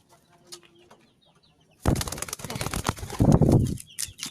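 Domestic pigeon flapping its wings in one burst lasting about two seconds, starting about two seconds in, with faint high chirps around it.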